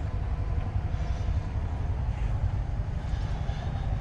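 Steady low rumble with a faint hum above it.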